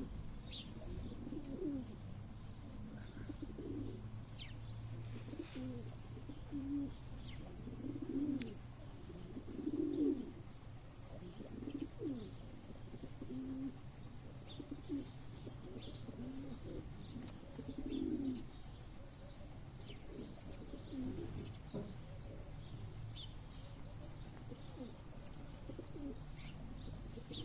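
Domestic pigeons cooing over and over, low rolling coos following one another every second or two.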